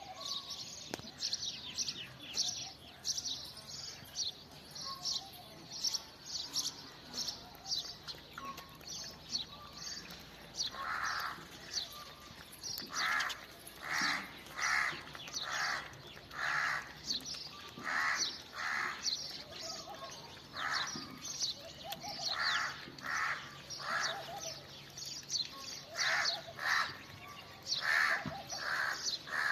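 Birds chirping rapidly and continuously, joined about a third of the way in by a harsher bird call repeated over and over in a steady series.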